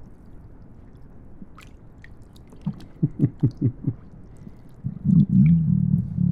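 Human stomach gurgling: a quick run of about six short low gurgles around the middle, then a longer low rumble near the end.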